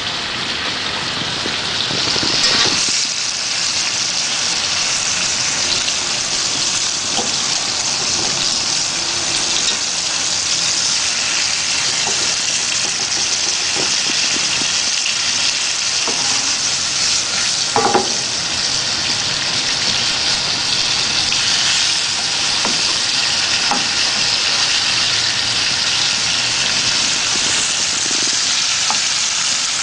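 Chicken pieces sizzling as they fry in hot oil and spice paste in a pan, a steady hiss, with occasional light knocks of a utensil against the pan, the loudest about two-thirds of the way through.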